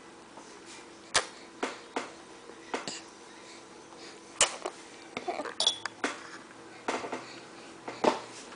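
Baby making short wet lip pops and sputters, about a dozen scattered irregularly, as he tries to blow raspberries.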